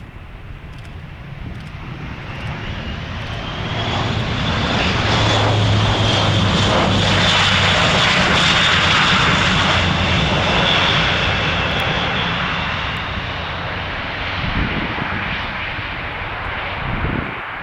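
Airbus A400M's four TP400 turboprop engines passing: the sound swells over the first few seconds, is loudest about midway, then slowly fades. A steady low drone and a high whine run through it.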